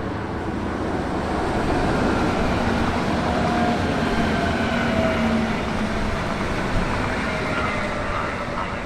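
A train running past on the tracks: a steady rumble that builds over the first couple of seconds and eases toward the end, with faint, slowly falling whining tones over it.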